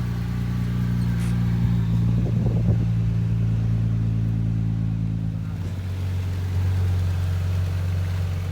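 Audi RS4's turbocharged engine idling steadily, its pitch dropping slightly as the idle settles lower about six seconds in.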